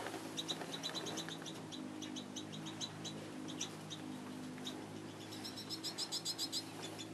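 Small birds chirping in short, high notes, with a quick run of rapid chirps about five and a half seconds in. A steady low hum runs underneath.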